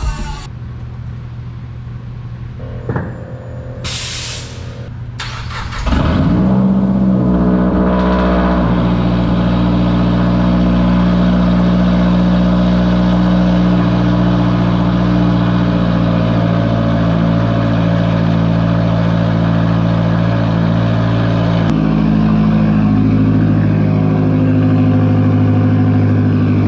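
Mazdaspeed3's turbocharged four-cylinder engine, on a straight-piped exhaust, starts about six seconds in and then idles steadily. Its idle note changes pitch near the end.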